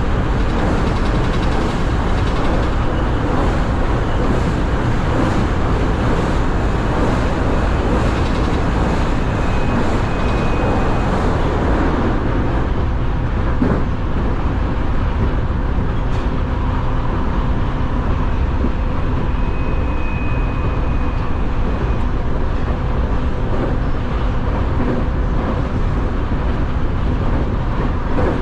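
Nankai Railway electric train running at speed, heard from inside the driver's cab: a steady rumble of wheels on rail and running gear. A faint high tone comes in and fades twice.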